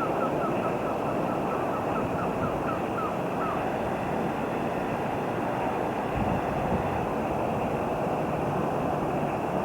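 Steady rushing rumble of a train running through the station. During the first three seconds or so there is a quick run of short high chirps, about four a second, that stops abruptly.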